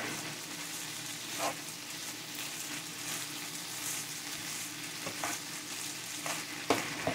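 Diced potatoes with poblano chile strips and tomato sizzling steadily in oil in a skillet while being stirred with a spatula. A few light clicks of the spatula against the pan come about a second and a half in and again near the end.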